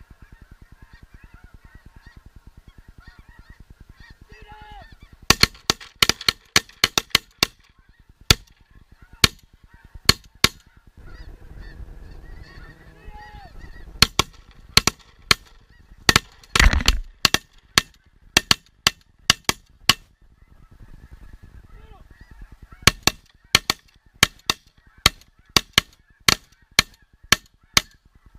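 Snow geese honking and calling, broken by three rapid strings of shotgun fire, each about a dozen shots in quick succession, starting about five seconds in, about halfway through and near the end.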